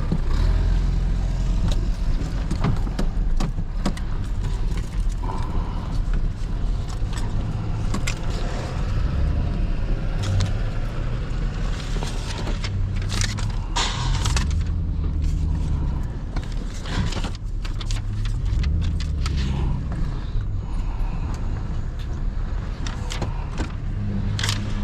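Truck engine running at low speed while the truck is manoeuvred, its pitch rising and falling a little, with scattered clicks and rattles.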